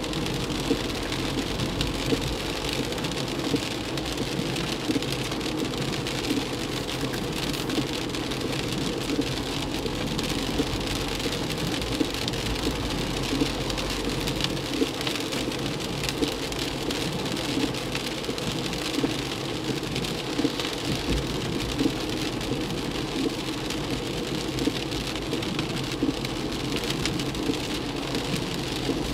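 Heavy rain falling on a car as it drives along a flooded-wet road, heard from inside the car: a steady wash of rain and tyre noise on the wet surface, dotted with many small sharp hits of drops.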